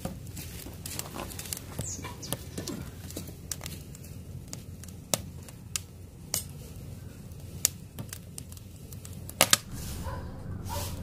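Wood fire in a hearth crackling and popping, with sharp irregular snaps over a low steady rumble and two louder pops in quick succession near the end.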